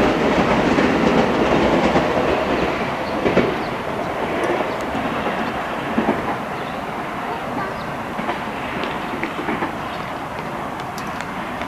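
Train wheels running on the rails, with scattered clicks over the rail joints, the sound slowly fading as the train moves away.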